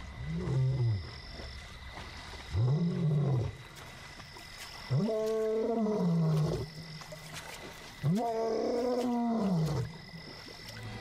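Young male lion roaring four times in a row, each call a long rising-then-falling moan, the later ones longer. He is calling out to find a lost companion.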